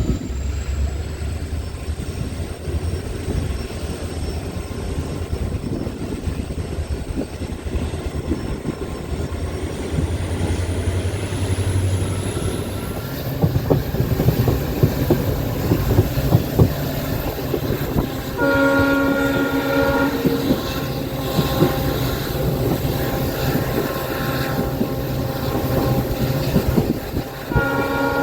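Diesel-hauled passenger train running at speed, its wheels clattering over the rail joints. A high whine rises over the first dozen seconds. The WDP4B diesel locomotive's multi-tone horn sounds for about two seconds past the middle, then starts again near the end.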